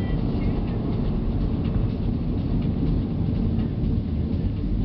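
Steady low rumble of a vehicle moving at speed, engine and road noise together, with no breaks.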